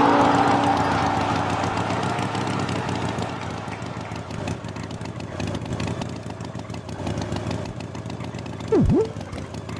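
A steady, engine-like mechanical rumble that starts loud and settles lower. Near the end, a quick swooping sound effect dips sharply in pitch and comes straight back up.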